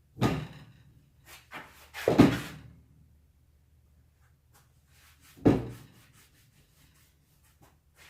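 Handling of a grimy lawn mower battery being wiped off: three dull thumps, the loudest about two seconds in, with lighter rubbing and scraping between them.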